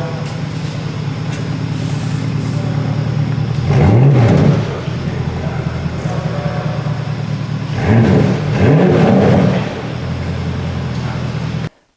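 Porsche Panamera Turbo's twin-turbo V8 idling, revved once briefly about four seconds in, then twice in quick succession around eight to nine seconds, the pitch rising and falling with each rev.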